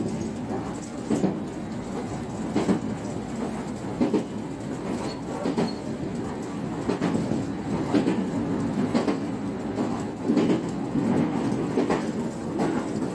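JR West 125-series electric train running along the line, heard from inside: a steady low rumble with the clickety-clack of wheels passing over rail joints every second or so.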